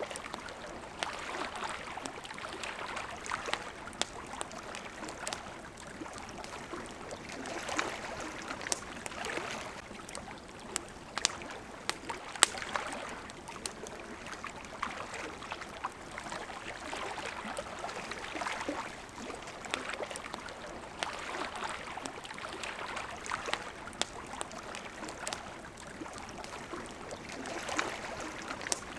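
Water lapping and splashing in gentle swells that rise and fall every few seconds, with a campfire crackling throughout in sharp pops and snaps, the loudest pop about twelve seconds in.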